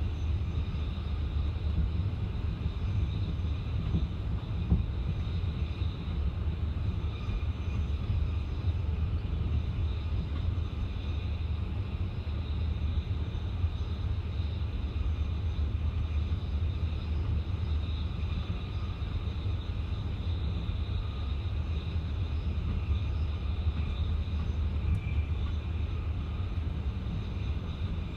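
Passenger train running steadily, heard from inside the carriage: a continuous low rumble with a faint higher hum, and a couple of light knocks about four to five seconds in.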